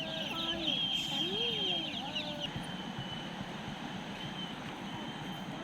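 Ducks giving short, low calls a few times in the first half, over a rapid high-pitched chatter that fades out about halfway through.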